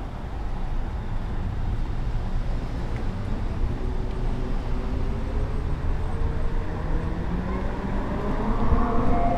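Rumble of a streetcar riding along, heard from on board. From about halfway through, a motor whine rises steadily in pitch and grows louder: the car is speeding up.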